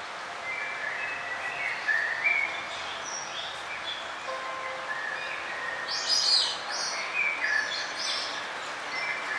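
Songbirds chirping and trilling in short, high phrases, one after another, with the loudest burst about six seconds in, over a steady outdoor hiss.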